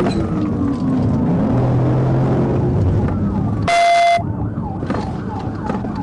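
Police car siren over road and engine noise: a slow rising-and-falling wail, broken near the middle by a loud, steady blaring tone of about half a second, after which the siren switches to a fast yelp that sweeps several times a second.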